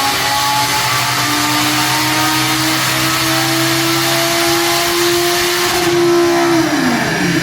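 Audi R8's 5.2-litre V10 engine accelerating hard under load, its pitch climbing slowly and steadily, then falling away quickly near the end as the revs drop.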